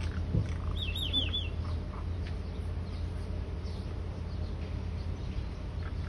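Birds chirping in a tree, short high chirps scattered throughout, with a quick run of four looping high notes about a second in. A steady low hum runs underneath.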